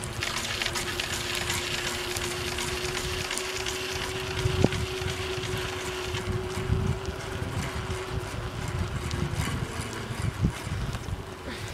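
Wind rushing over the microphone while riding a bicycle, with a steady hum that stops about nine and a half seconds in and a sharp click about four and a half seconds in.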